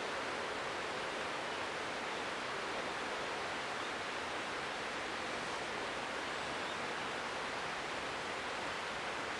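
Flowing river water giving a steady, even rush, with no bird calls heard.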